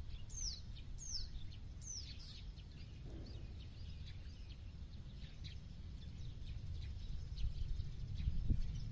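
Wild birds calling outdoors: a few quick, high down-slurred whistles at the start, then scattered faint chirps over a steady low rumble of background noise.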